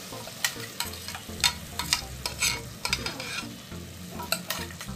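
Freshly added ground masala paste and drumstick pieces cooking in a hot aluminium pressure cooker, with irregular sharp pops and crackles over a faint sizzle.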